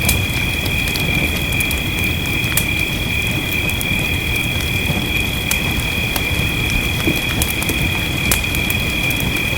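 Wood fire crackling with irregular sharp pops over a steady rush of rain. A continuous high-pitched, two-toned drone, like a chorus of insects or frogs, runs all through it.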